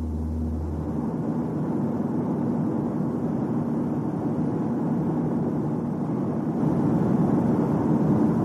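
Vehicle noise on the move: a steady rushing rumble that grows a little louder about two-thirds through, after a low hum that fades about a second in.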